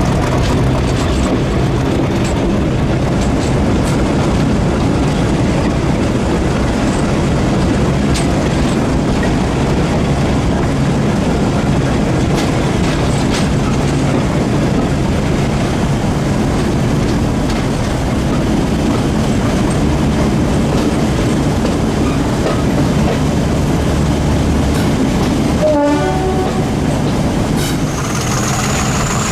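Heritage British Rail diesel locomotive working a train, its engine running steadily under wheels rolling on the rails. A short pitched note sounds near the end.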